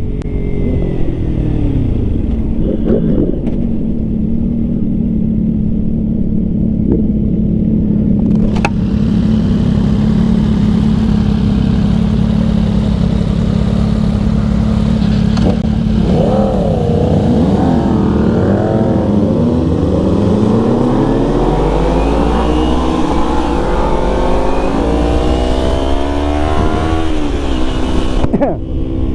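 Yamaha MT-09 three-cylinder motorcycle engine with wind noise. The engine note falls off under braking, holds steady for a long stretch, wavers and dips, then climbs steadily under acceleration before dropping sharply near the end at a gear change.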